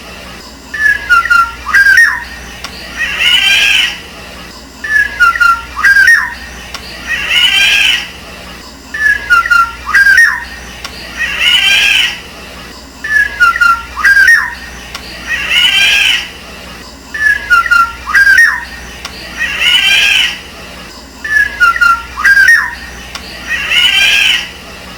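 Black-naped oriole calling: a harsh call of about a second alternating with a short fluty whistled phrase, the pair repeating the same way about every four seconds.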